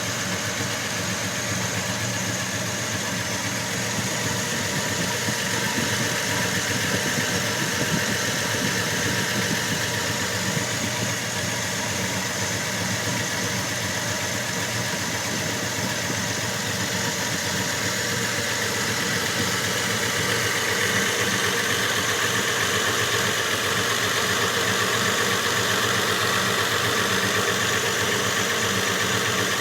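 1965 Chevy C10 pickup's engine idling steadily.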